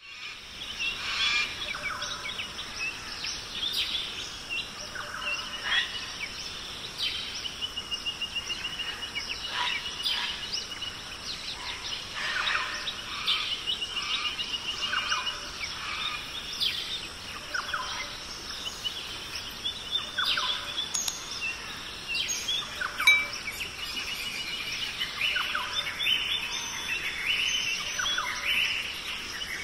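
Several birds chirping and singing over a steady hiss, with short calls throughout and a few fast, even trills around the middle.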